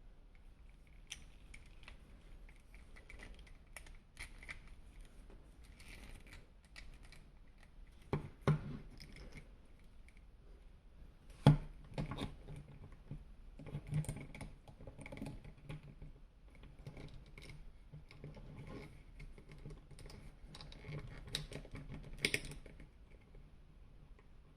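Small plastic clicks, taps and rustles from hands handling an action figure and its packaging, with a few sharper knocks: two close together about eight seconds in, the loudest about halfway through, and one more near the end.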